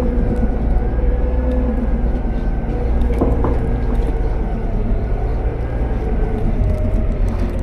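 Autocar-Heil Freedom front-load garbage truck running, a steady engine rumble with a held hum over it and two short knocks about three seconds in.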